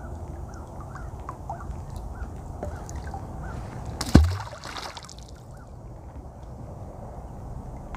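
A heavy object hitting the water: one loud sudden splash about four seconds in, a low thud with a short rushing tail, typical of a magnet-fishing magnet thrown in. Faint short chirps repeat about twice a second earlier on.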